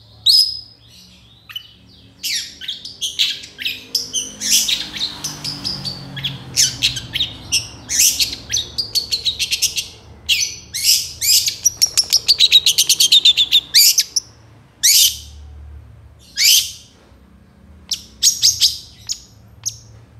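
Long-tailed shrike (cendet) in full song: a varied string of sharp, high chattering notes and short phrases, separated by brief pauses. About halfway through comes a dense, fast run of rapid repeated notes.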